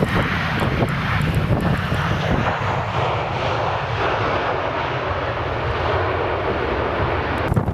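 Airliner's engines running loud as it flies by, a steady rushing noise over a deep rumble, which cuts off abruptly near the end.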